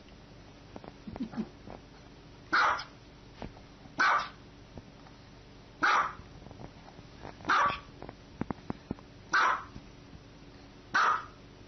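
Small white dog barking six times, single short barks spaced about one and a half to two seconds apart.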